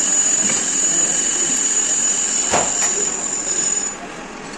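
Metal lathe cutting steel, with a steady high-pitched squeal over the machining noise. A single knock comes about halfway through, and the squeal stops about four seconds in.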